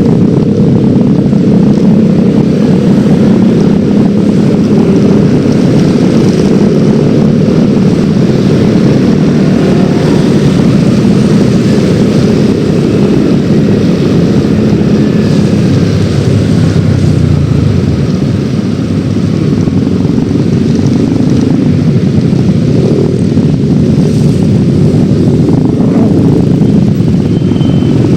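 Yamaha X-Ride 113cc single-cylinder automatic scooter riding along, its engine and road noise running steadily, with a slight easing off about two-thirds of the way through.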